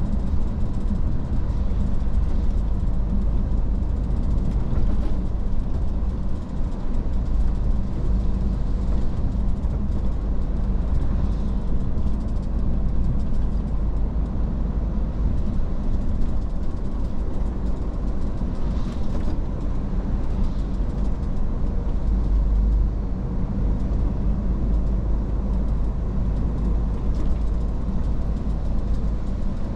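Iveco S-Way truck driving along, its diesel engine running at a steady pace under a constant rumble of road and tyre noise.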